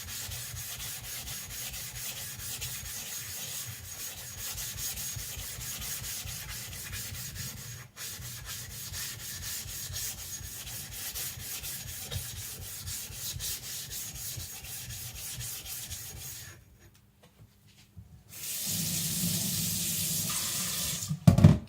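Naniwa Professional 1000 water stone rubbed rapidly back and forth on a 140-grit flattening plate, a fast, even, gritty rubbing that lapps the stone flat; it stops about 16 seconds in. After a short pause, a few seconds of hissing water spray.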